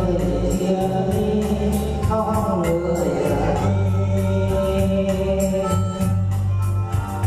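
Electronic keyboard music with sustained organ-like chords, a bass line and a steady drum-machine beat, with a voice singing over it.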